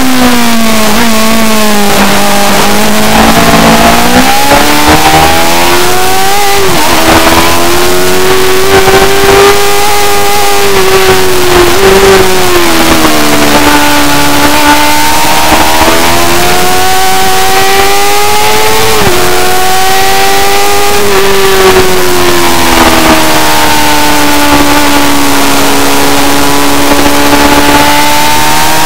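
Superbike engine at racing speed, loud throughout, its revs rising and falling in long sweeps, with a few sudden breaks in pitch.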